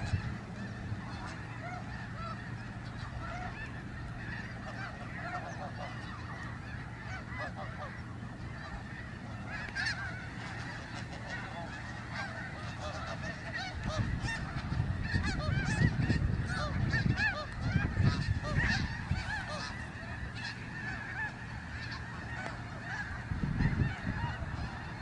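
A large flock of snow geese honking continuously, many overlapping short calls at once. A low rumble swells in over several seconds past the middle and briefly again near the end.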